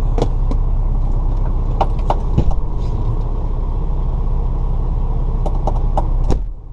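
Semi truck's diesel engine idling steadily, a low rumble with scattered short clicks and knocks over it. The sound drops out suddenly near the end.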